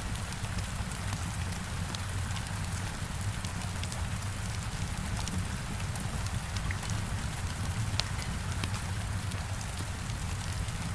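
Heavy rain falling steadily against a window, with a low rumble underneath and scattered sharp ticks and crackles from a wood fire in a fireplace.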